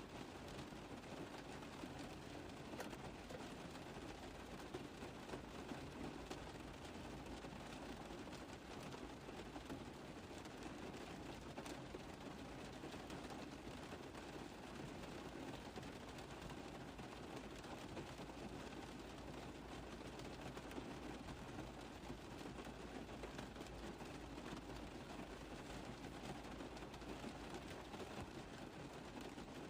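Rain falling steadily on a car roof: many small drops tapping over an even hiss.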